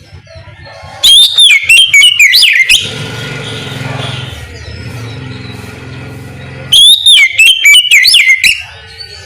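Oriental magpie-robin singing two loud bursts of clear, rising and falling whistled phrases, a few seconds apart. A quieter low drone fills the gap between them.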